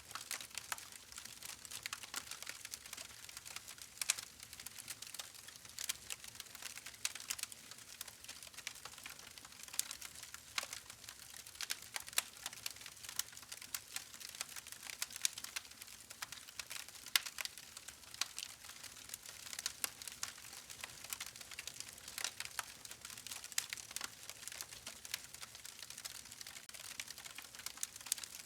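Campfire wood fire crackling: dense irregular pops and snaps over a faint steady hiss.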